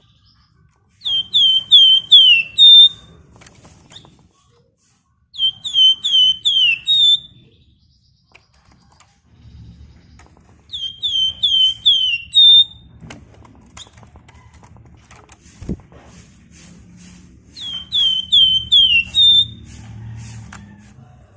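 A Flamboyan (wergan Jawa) songbird singing four short, loud phrases, each a fast run of about five high, downward-sweeping whistled notes ending on a brief higher note.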